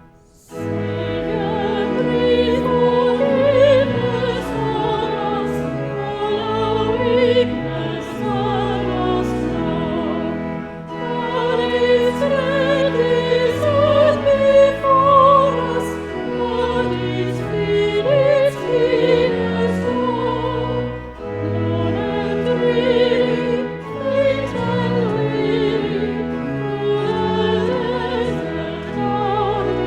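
Classical music in a cathedral: a solo voice sung with wide vibrato over held low accompaniment chords. It starts just after a brief pause.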